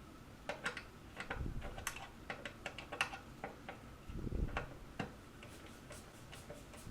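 Irregular sharp metal clicks and taps, with a couple of dull knocks, as the screws of a garbage disposal's sink mounting ring are tightened down by hand.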